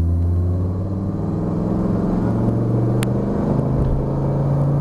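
Dodge Viper's V10 engine accelerating hard under load, its pitch climbing steadily and then dropping on an upshift about three and a half seconds in before climbing again. A single sharp click comes just before the shift.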